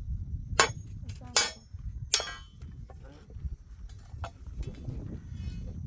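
Three sharp metallic knocks in the first two and a half seconds, each ringing briefly, over a steady low rumble.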